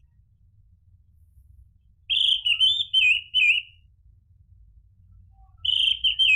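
Orange-headed thrush singing: a phrase of clear, warbling whistled notes about two seconds in, lasting a second and a half, and a shorter phrase near the end.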